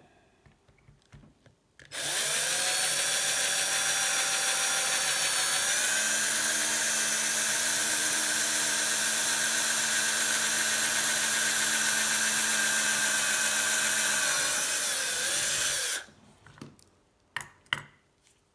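Small electric drill running steadily with a whine, drilling a hole into a vintage quick-release skewer to lighten it. It starts about two seconds in, shifts slightly in pitch a few seconds later, and stops suddenly near the end, followed by a few light clicks.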